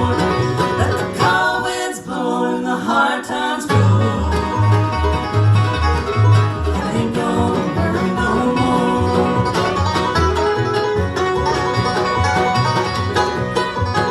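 Bluegrass band playing an instrumental passage: banjo and guitar picking over upright bass. The bass notes drop out for about two seconds near the start, then come back in strongly.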